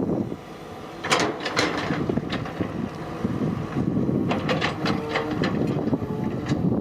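Excavator's diesel engine running under load, with several sharp metallic clanks and knocks from the working machine about a second in and again around four to five seconds.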